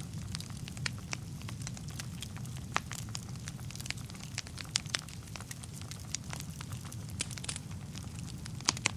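Wood fire burning in a fireplace: a steady low rumble of flames with irregular sharp crackles and pops, the loudest near the middle and just before the end.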